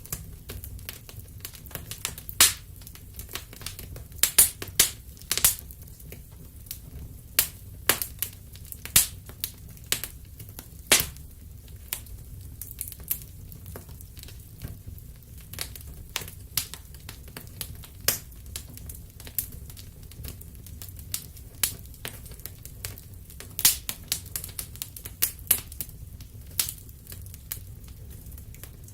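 Fire crackling in a fireplace: irregular sharp pops and snaps, some much louder than others, over a steady low rumble.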